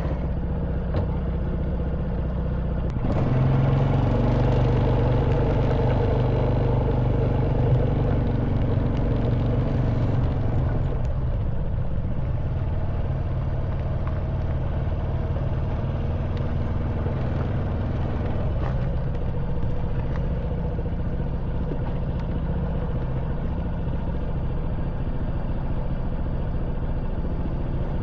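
Honda Wave 110cc single-cylinder four-stroke engine running as the motorbike rides along a rough track. It gets louder about three seconds in and eases back about eight seconds later.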